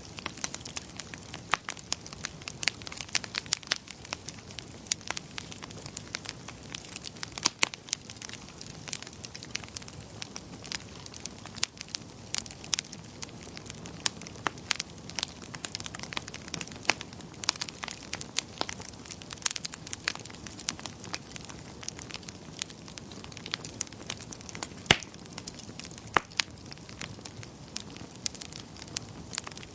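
Wood fire crackling and popping: frequent sharp, irregular pops of varying loudness over a steady soft hiss of burning.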